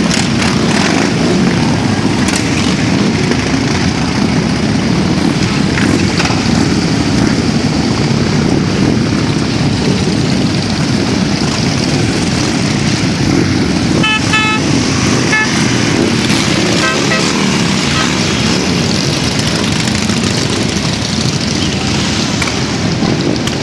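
Motorcycle engines running steadily, with a series of short horn beeps about two-thirds of the way through.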